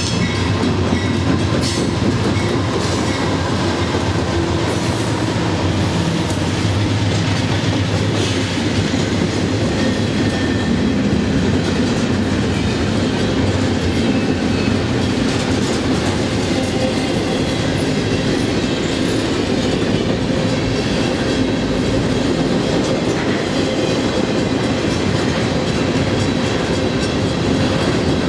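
Norfolk Southern double-stack intermodal freight train passing close by. The diesel locomotives' engines go by in the first several seconds, then a long string of loaded container well cars rolls past with steady, loud wheel-on-rail noise.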